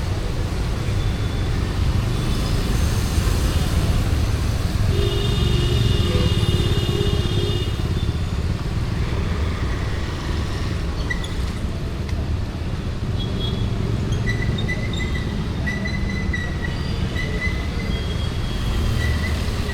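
Steady road-traffic rumble of passing vehicles on a city street. About five seconds in, a tone with several pitches is held for a couple of seconds. Faint short high tones come and go near the end.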